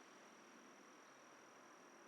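Near silence of a forest at dusk, with one faint, steady, high-pitched insect trill.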